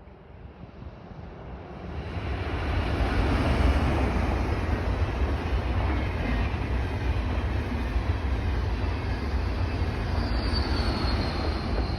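A train passing close by: a steady rushing noise of wheels on rail that builds over the first few seconds and then holds. A faint high squeal comes in near the end.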